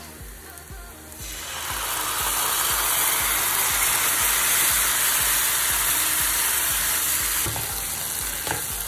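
Canned baked beans in tomato sauce poured into a hot pan of fried onion and chilli, starting to sizzle suddenly about a second in, then frying with a steady hiss.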